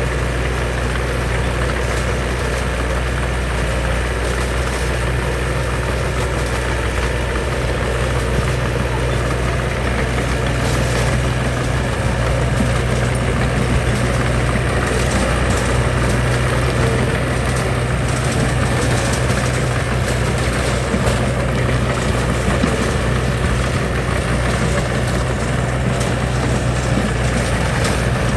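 Heavy diesel engine of construction machinery running steadily, a deep low hum under a noisy mechanical clatter.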